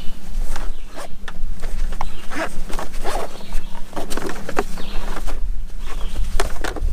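Rustling and knocking as gear is rummaged through in a nylon hydration pack, with many short, irregular handling noises over a steady low hum.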